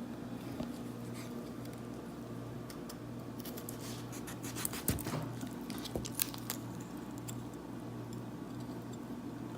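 Paring knife cutting through a raw chicken's wing joint: scattered small wet clicks and crackles, thickest in the middle, over a steady low hum.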